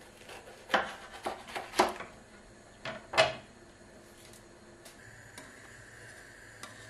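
Household objects handled indoors: a quick run of sharp knocks and clatters, then one more loud knock about three seconds in. About five seconds in, a steady mechanical hum starts.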